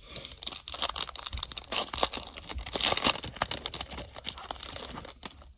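Foil wrapper of a Topps Series 1 baseball card pack being torn open and crinkled by hand: a dense run of crackling and tearing that stops about five seconds in.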